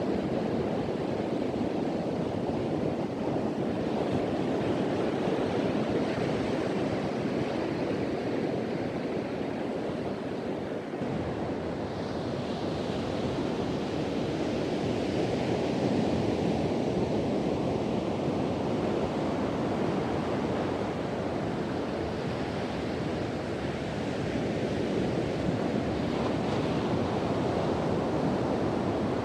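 Ocean surf breaking and washing on a beach, with wind blowing across the microphone. A continuous rushing roar with a brighter, hissing swell of wash about halfway through.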